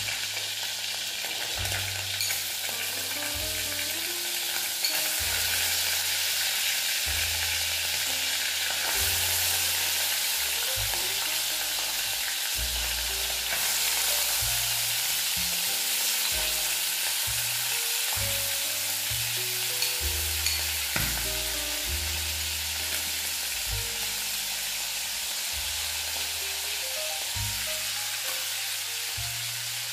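Boiled chicken pieces sizzling steadily as they fry in hot oil in a clay pot.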